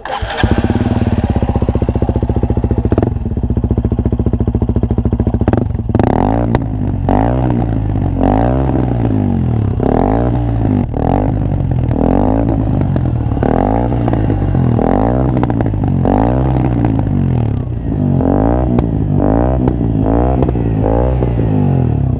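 KTM Duke 125's single-cylinder four-stroke engine through an Arrow aftermarket exhaust with a modified dB killer. It idles steadily for a few seconds, then the throttle is blipped over and over, about one short rev a second.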